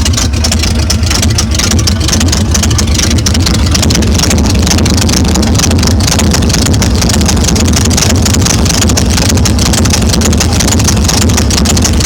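Pickup truck's inline-six engine running at a steady idle with a loud, deep exhaust note, even and unchanging throughout.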